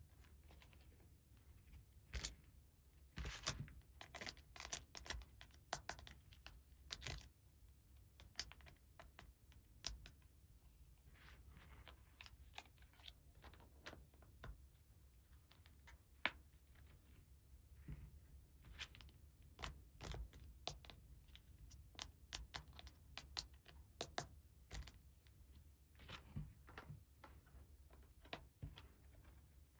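Toy packaging and small plastic play-set pieces being handled: irregular light clicks and taps, with a few short tearing or crinkling sounds of packaging being opened.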